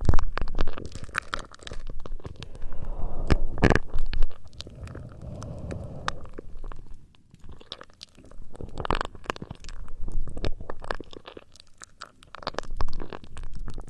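Close-miked ASMR trigger sounds: irregular crackling clicks over a low rubbing rumble, with a quieter lull about halfway through.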